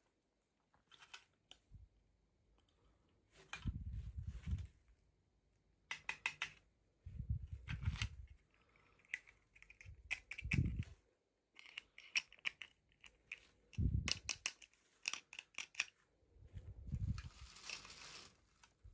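Hands unboxing small toys: irregular sharp clicks and rustles of packaging being handled and cut, with heavy thumps every few seconds.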